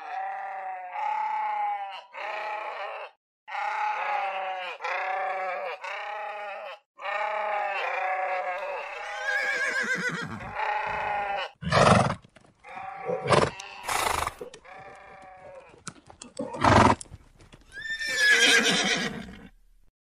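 Sheep bleating repeatedly, several voices overlapping in short wavering calls. About ten seconds in, horses take over with short loud blowing snorts and a high whinny near the end.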